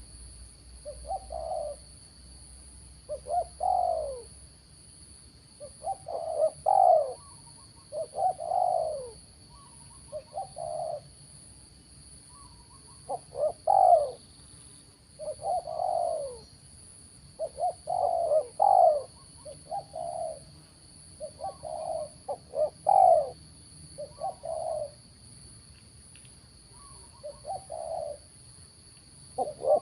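Spotted dove cooing: repeated phrases of short coos that fall in pitch, one phrase every couple of seconds.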